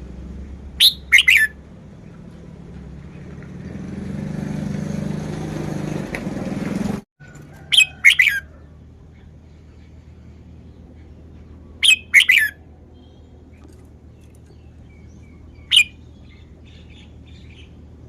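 Red-whiskered bulbul singing: short, loud song phrases about every four seconds. A rising noisy rumble runs under the second and third seconds before the middle and cuts off suddenly about seven seconds in.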